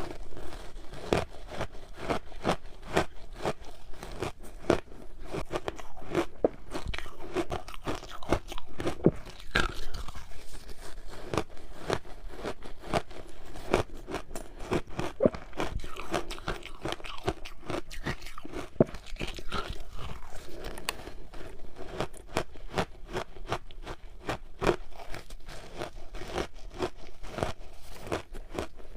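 Frozen matcha ice balls being bitten and chewed: a dense run of sharp, irregular crunches and cracks of breaking ice, several a second, without a pause.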